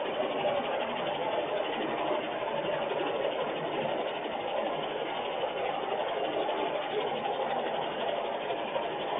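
Heavy rain falling, a steady even hiss and patter.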